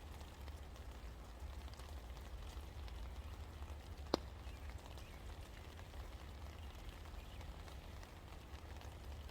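Rain falling steadily, a faint even patter of scattered drops, with one sharper, louder drop or drip about four seconds in, over a low steady rumble.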